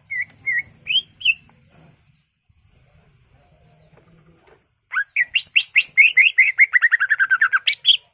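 Cucak ijo (greater green leafbird) singing: four short whistled notes in the first second and a half, then after a pause a fast run of about twenty quick rising notes that slowly fall in pitch, ending with a higher note.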